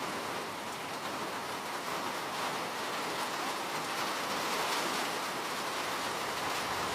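Steady rain falling, a constant hiss with faint individual drop taps.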